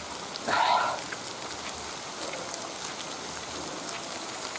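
Light rain pattering steadily on leaves, with many small drop ticks. A short, louder burst of noise comes about half a second in.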